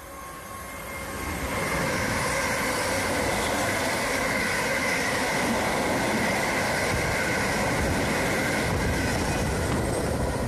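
Electric multiple unit passing through the station at speed, growing loud over the first second or two, then a steady rush of wheels on rail with a high whine over it.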